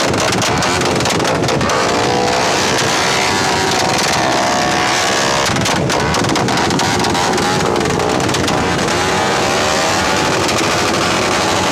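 Loud, continuous running of motor vehicle engines, with their pitch rising and falling in places as they are revved; the sound is dense and harsh enough to overload the microphone.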